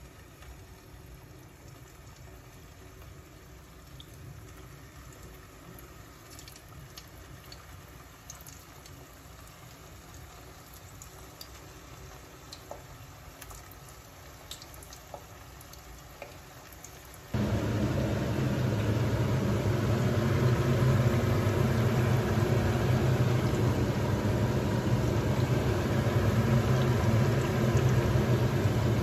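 Köfte meatballs shallow-frying in sunflower oil in a pan, with scattered faint crackles and pops. About two-thirds of the way through it jumps abruptly to much louder, denser sizzling over a low steady hum.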